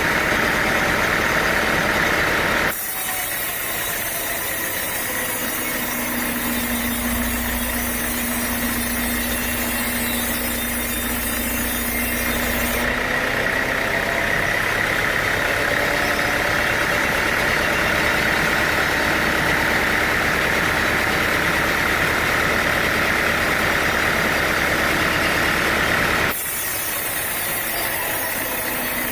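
Sawmill machinery running steadily, an engine-like drone with a steady hum. The sound changes abruptly about three seconds in, again around thirteen seconds and near the end.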